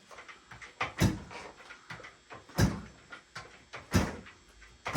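1973 Yamaha CT3's 175 cc two-stroke single being kickstarted: three kicks about a second and a half apart, each a short thump of the kick lever turning the engine over, with the choke on to prime it. It has not caught yet.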